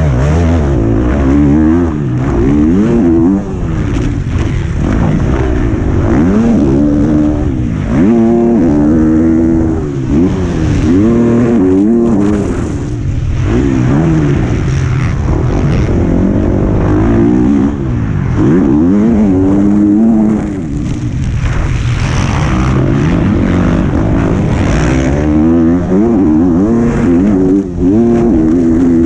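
Motocross bike engine heard from an onboard camera, revving up and dropping back again and again as the rider accelerates, shifts and rolls off around the track, over low wind rumble.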